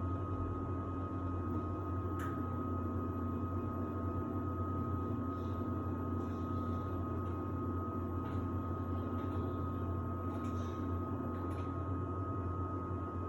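Samsung WD70T4047CE washer-dryer running steadily in its drying stage: a constant low hum with a thin steady whine over it, and a few faint clicks, one about two seconds in and two near the end.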